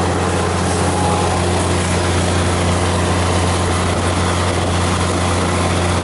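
Steady engine drone and running noise of a moving Thai diesel passenger train, heard from inside a carriage with the window open. It cuts off abruptly at the end.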